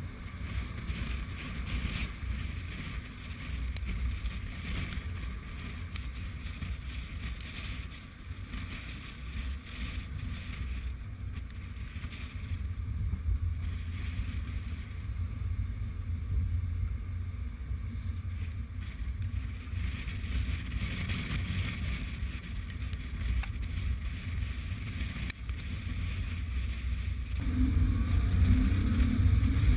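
Strong gusty wind buffeting the microphone, a steady low rumble that swells in gusts and grows louder about two seconds before the end.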